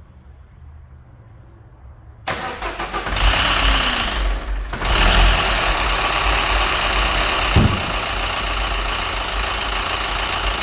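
Citroën DS3 1.6 petrol engine starting about two seconds in, then running with a knock that fresh oil and a new filter have not cured. The mechanic puts the knock down to scored camshafts and heads after the engine ran without oil.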